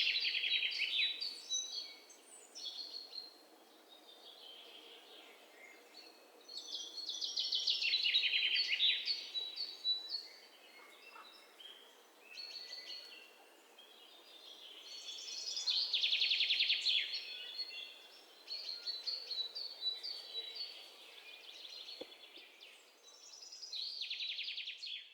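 A songbird singing a rapid trilling song that falls in pitch, repeated four times about eight seconds apart, with softer chirps in between.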